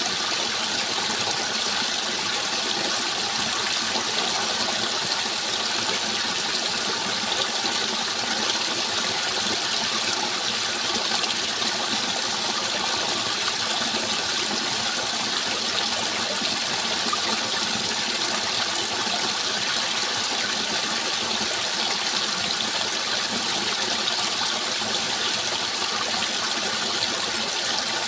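Flowing water rushing steadily, unchanging throughout.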